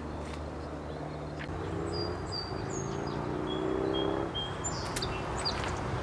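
Wild birds chirping outdoors in short high notes, several of them in the middle stretch, over a steady low rumble of background noise.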